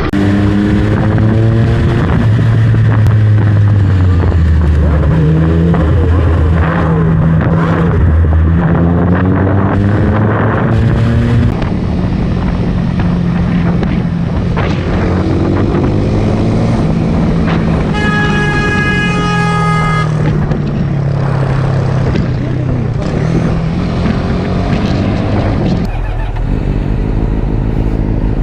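Motorcycle engine running hard, its pitch rising as it accelerates and dropping at each gear change, over and over. A steady high tone sounds for about two seconds in the middle.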